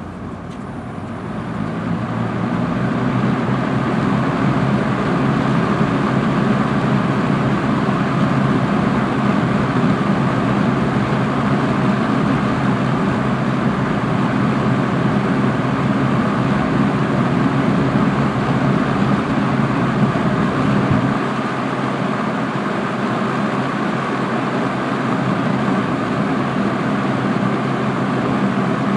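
Kmart K-223 box fan running: a steady rush of air from the blades over a low motor hum, building up over the first few seconds, then a little quieter from about two-thirds of the way through.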